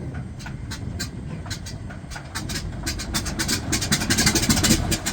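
Corsair's Pratt & Whitney R-2800 radial engine running, a steady deep rumble with sharp exhaust crackles that grow denser and louder in the second half.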